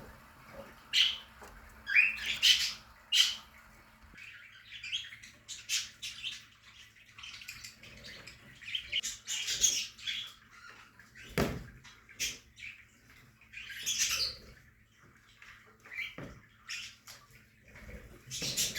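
A colony of budgerigars chirping and chattering in an aviary, a run of short high calls on and off, with a single sharp click about eleven seconds in.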